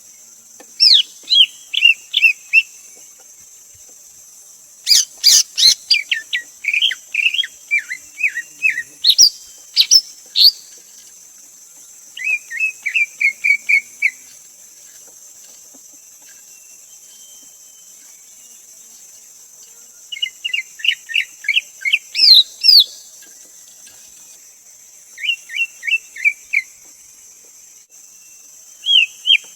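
Greater green leafbird calling in about six short phrases of quick, sharp whistled chirps, each phrase a second or two long with pauses between. A steady high hiss runs underneath.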